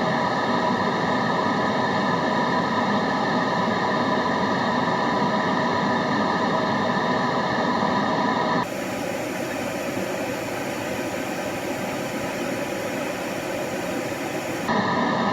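Steady white-noise ambience, a dense hiss with several steady tones held through it. About eight and a half seconds in it cuts abruptly to a brighter, even hiss, then about six seconds later cuts back just as suddenly to the toned hiss.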